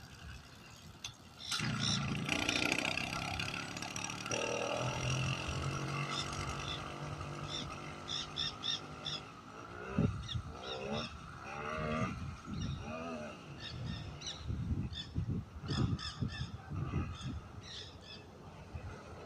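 Cold two-stroke bicycle engine catching on a pedal start about a second and a half in and running with a steady buzz. From about halfway through it runs unevenly, in irregular surges that rise and fall in pitch, as a cold engine does before it warms up.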